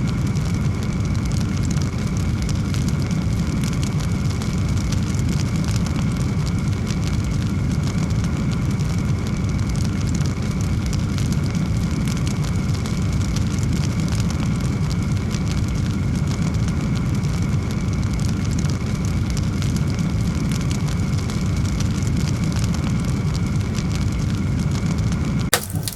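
Large wood fire burning with a steady low roar and dense crackling. It cuts off suddenly just before the end.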